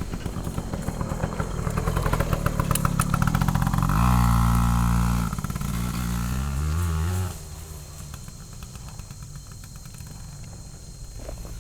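Tractor engine running. Its speed comes up to a loud, steady pitch about four seconds in, then falls off in steps and drops back to a quieter idle about seven seconds in.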